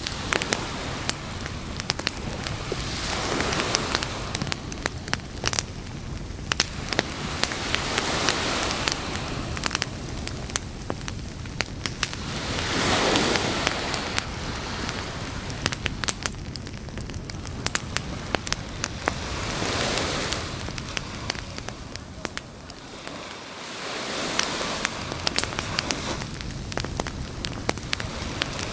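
Wood campfire crackling and popping with many sharp snaps, over surf that swells and washes in every few seconds.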